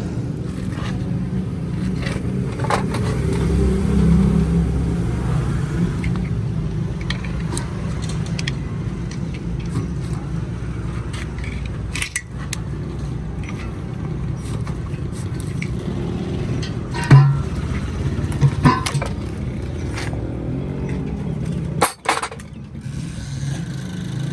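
Metal parts and tools clinking, knocking and scraping in a workshop, scattered sharp strikes with a few louder knocks, over a steady low running hum.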